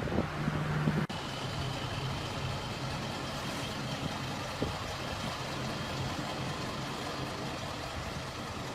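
A heavy truck engine running steadily at a low, even hum, with a few loud knocks in the first second and an abrupt cut about a second in.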